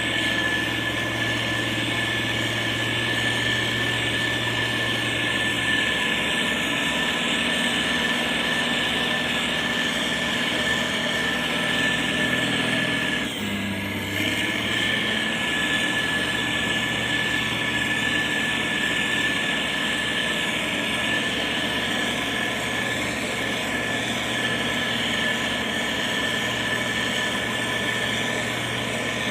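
Motor grader's diesel engine running steadily, with a constant high whine over the engine noise. The sound dips briefly about halfway through.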